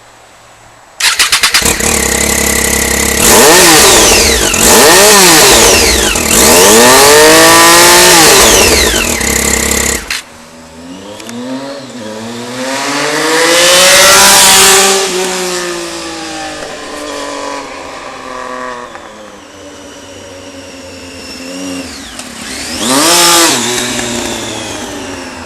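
Triumph Street Triple's three-cylinder engine, breathing through a full Remus HexaCone exhaust with the baffles in, starts about a second in and idles high. It is revved hard three times in quick succession, drops back suddenly, then rises and falls in a slower rev and gives a short blip near the end.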